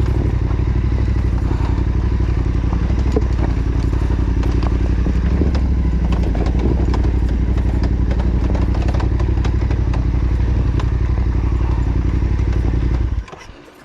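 Yamaha Ténéré 700's parallel-twin engine running at a steady pitch on a trail ride, with a few light clicks and knocks over it. The engine sound cuts off abruptly near the end.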